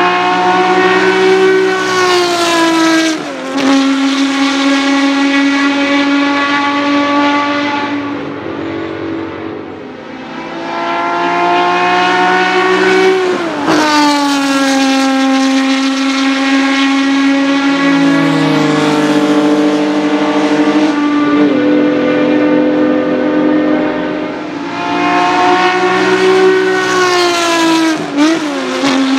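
The 3.3-litre V12 of a 1965 Ferrari 275 GTB at full throttle, passing by several times. Each time it goes past, its note falls sharply.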